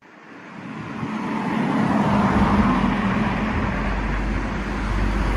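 Steady motor vehicle engine noise with a low rumble, fading in over about two seconds and then holding level.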